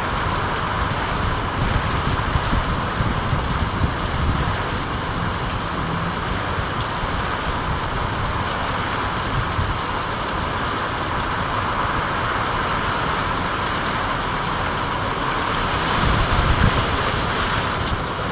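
Steady rain falling, an even hiss with a low, uneven rumble beneath it that swells briefly near the end.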